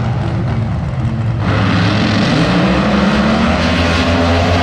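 A loud car engine running, getting louder and rougher about a second and a half in as it revs up.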